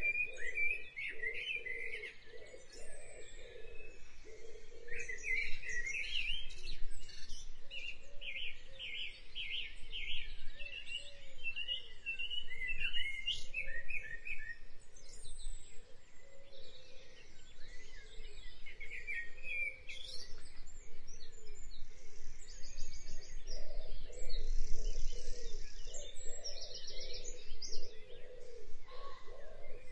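Birds chirping and singing, with bursts of rapid trills, over a low steady hum.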